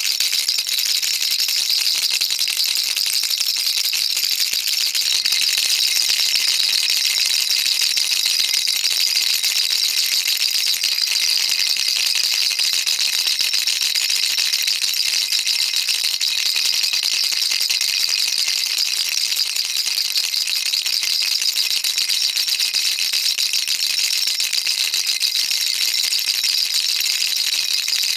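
Baby rattle shaken continuously, a dense, steady, high-pitched rattling of many small pellets with no pauses.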